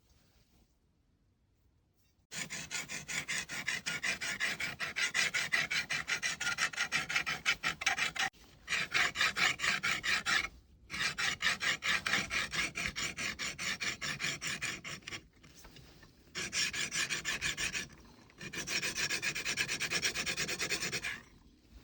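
A steel hand file scraping back and forth over the forged steel blade of a hook knife in rapid, regular strokes, shaping it. The strokes come in several runs with brief pauses between them.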